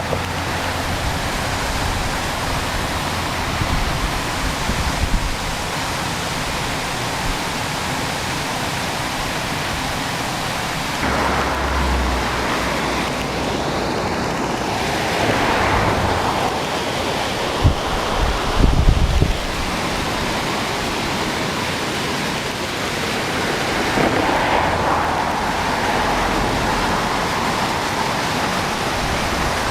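Water falling over a weir-like drop, rushing steadily as an even hiss with a few low thumps about two-thirds of the way in.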